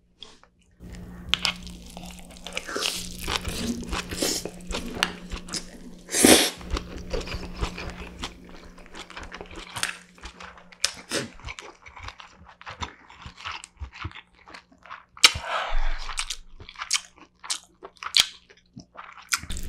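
Close-miked mouth sounds of eating spicy cold buckwheat noodles with grilled pork neck and crunchy young-radish kimchi: wet chewing and crunching with irregular clicks. There are a few louder bursts of slurping and biting, the biggest about six seconds in and another about fifteen seconds in.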